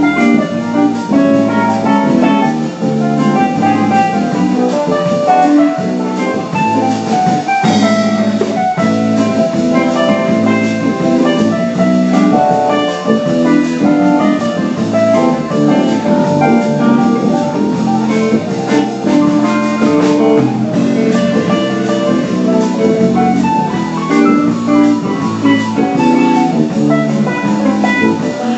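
Steel pan band playing an instrumental tune, with many short melodic notes over a steady accompaniment.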